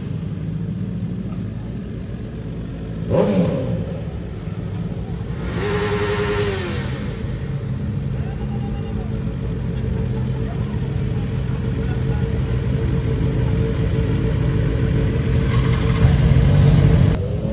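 Motorcycle engines running steadily, with a short rev about three seconds in and a longer rev that rises, holds and falls around six seconds in; the engine noise swells near the end.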